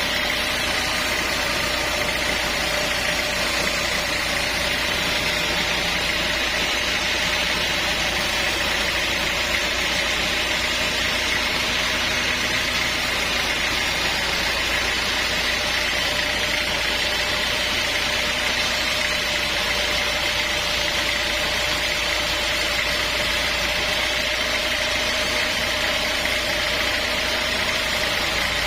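Sawmill machinery running steadily, an even mechanical noise with a constant high whine.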